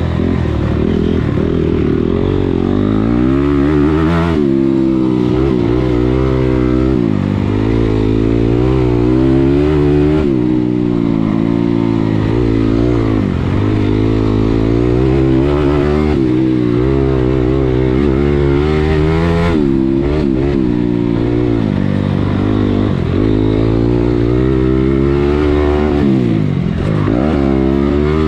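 Motocross dirt bike engine being ridden hard around a track, the revs climbing and dropping again and again as the throttle is opened and shut through corners and over jumps.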